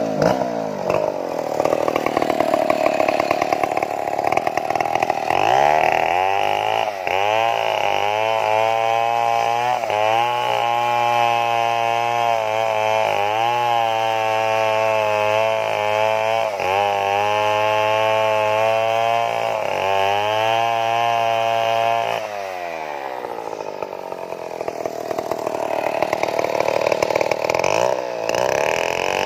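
Stihl chainsaw running hard at high revs while cutting wood, its pitch dipping briefly several times as the chain loads up in the cut. About three-quarters of the way through, the revs fall away and the saw runs quieter, then it climbs again near the end.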